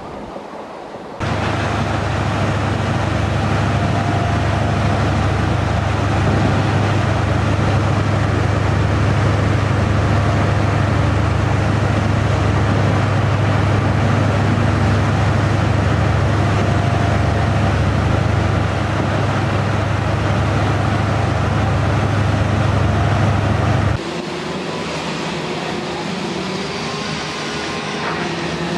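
Heavy machinery engine running steadily and loudly with a deep hum. It starts abruptly about a second in and cuts off abruptly near the end, giving way to quieter engine noise.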